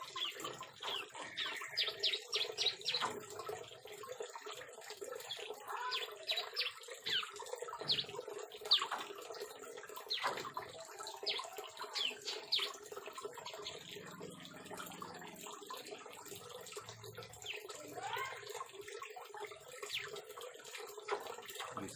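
Bar-winged prinias (ciblek) chirping in an aviary: quick series of short, high, falling chirps, coming in bunches and pauses, over a steady background hiss.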